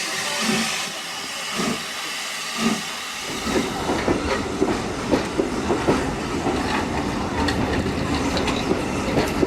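Steam train: steam hissing with a low chuff about once a second, then, from about three seconds in, a dense clatter of wheels and carriages as the train moves.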